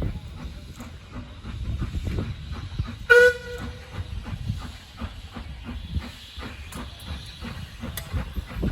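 Steam locomotive working, with rapid low rhythmic beats and hiss, and a single short whistle blast about three seconds in.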